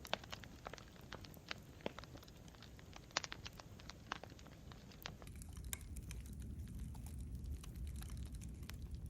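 Wood campfire crackling, with irregular sharp pops and snaps over a low rumble that grows a little louder about five seconds in.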